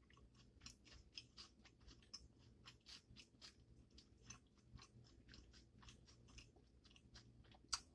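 Faint wet mouth clicks and smacks of a person chewing food close to the microphone, many small irregular ticks throughout.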